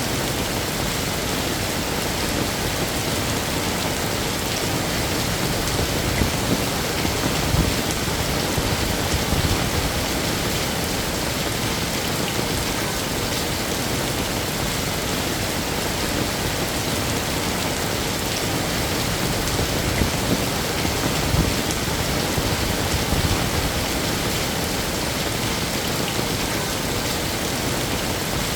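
Heavy rain falling steadily as a dense, even hiss, with a few brief swells in loudness.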